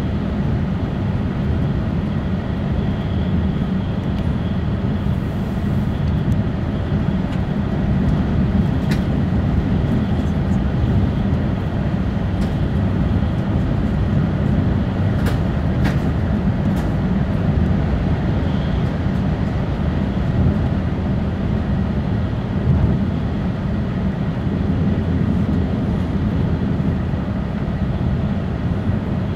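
Steady low rumble of an E6 series Shinkansen running at high speed, heard inside the passenger cabin, with a few faint clicks about halfway through.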